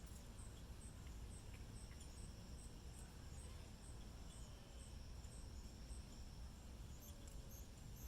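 Faint insect chirping: short, high chirps repeating evenly about twice a second over a low, steady background rumble.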